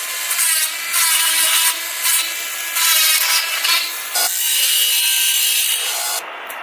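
A hand tool or small power tool rubbing and grinding on a part, in repeated passes of about a second each. The scraping has a faint whine under it and gets quieter near the end.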